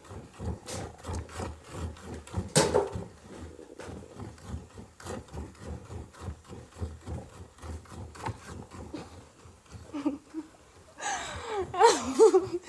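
A cow being milked by hand: rhythmic squirts of milk into a pail, about two to three strokes a second. Near the end comes a short call whose pitch slides up and down.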